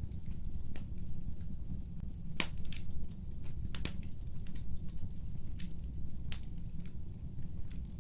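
Fireplace fire crackling: irregular sharp pops and snaps, a few louder ones, over a steady low rumble of the flames.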